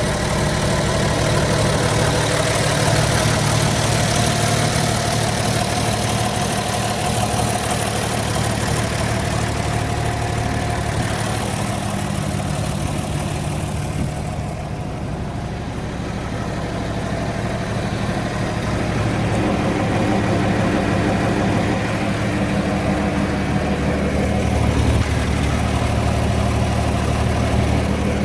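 1975 John Deere 4430 tractor's turbocharged six-cylinder diesel engine running steadily. It goes briefly quieter and duller about halfway, then returns to its earlier level.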